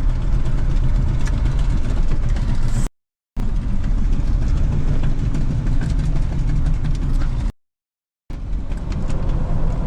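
Vehicle engine and road noise heard from inside the cab, a heavy low rumble, as the vehicle keeps rolling just after a tire blowout. The sound cuts off to silence twice, around three seconds in and again near the end, and comes straight back.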